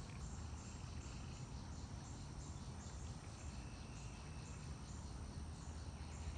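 Insects chirping in an even, repeating rhythm of about two pulses a second, high-pitched, over a steady low rumble.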